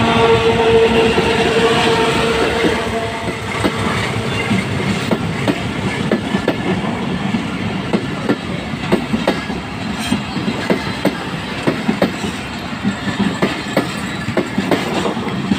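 A diesel-hauled passenger train passing close by. The lead locomotive gives a steady drone for the first three seconds. Then the coaches' wheels clatter over rail joints in a quick, irregular clickety-clack.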